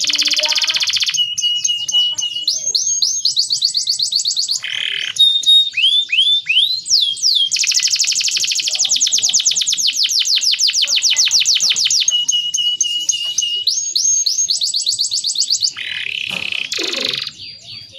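Male domestic canary singing a continuous song of rapid trills, upward-sweeping whistled notes and buzzy rattling phrases between them. A brief, noisier burst with a falling note comes near the end.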